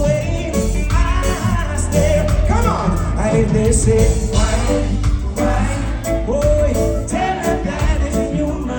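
Live reggae band playing with a lead vocal singing over a heavy, steady bass line.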